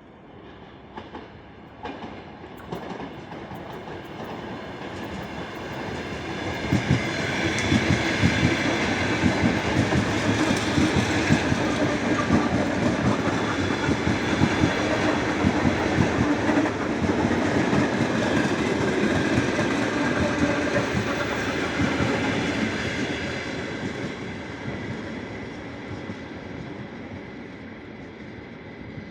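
ER9T electric multiple unit passing through a station, its wheels clattering over the rail joints. It grows louder over the first several seconds, stays loud with rapid clicking for about fifteen seconds, then fades as it moves away.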